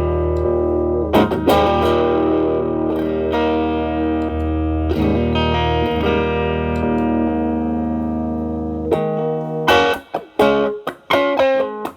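Telecaster electric guitar through an MXR Distortion+ stacked with a Boss SD-1 set as a boost (level max, drive min), into a Marshall Valvestate's clean channel: distorted chords ringing out with long sustain, struck again a couple of times. Near the end the playing turns to short, choppy picked chords.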